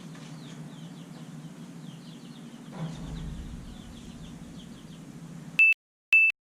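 Faint birds chirping over a steady low hum. About five and a half seconds in, the sound cuts off abruptly and two short, loud, high-pitched electronic beeps follow, about half a second apart.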